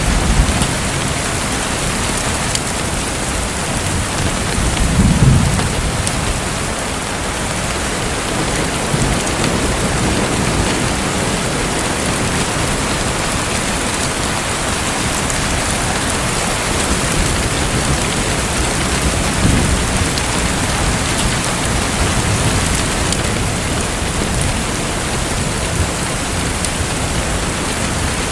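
Steady hissing water noise like rain falling on a surface, with a low rumble that swells and fades about five seconds in.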